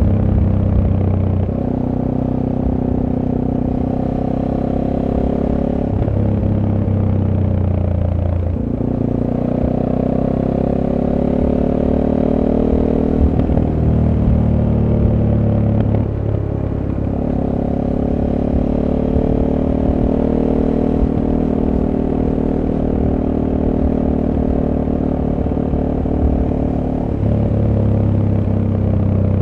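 SWM Super Dual T's 600 cc single-cylinder engine through its stock exhaust, heard on board while riding: the note climbs and drops with the throttle, with several gear changes along the way.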